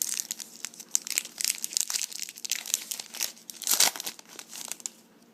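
Foil wrapper of a 2011 Upper Deck football card pack crinkling and crackling as it is torn open and pulled off the cards. The dense crackling stops about five seconds in.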